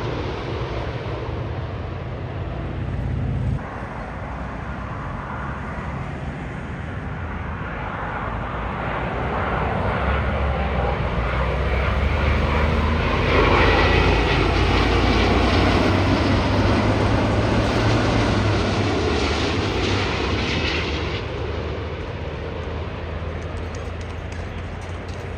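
Large jet airliner on final approach passing low overhead. Its engine noise builds to a peak about halfway through, then fades with a falling pitch as it goes by.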